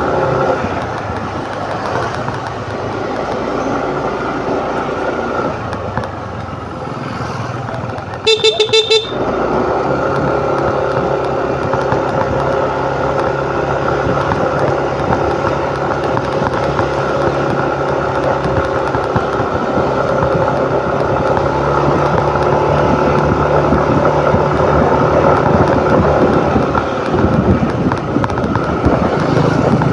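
Motor scooter running at riding speed with wind on the microphone. About eight seconds in, a vehicle horn gives a few quick beeps.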